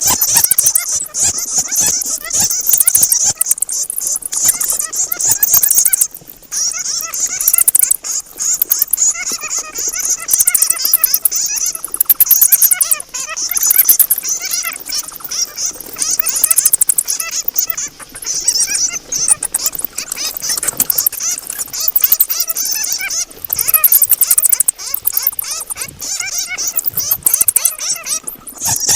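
Bats squeaking and chattering: a dense, continuous stream of high-pitched chirps and rapid clicks.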